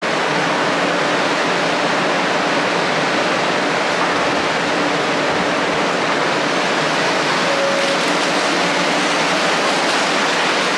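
Steady loud rushing hiss beside a 500 Series Shinkansen standing at the platform, with a faint low hum.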